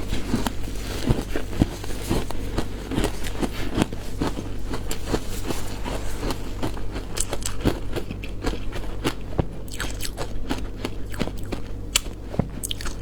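Frozen matcha ice being bitten and chewed: irregular crunches and cracks, several a second, close to the microphone.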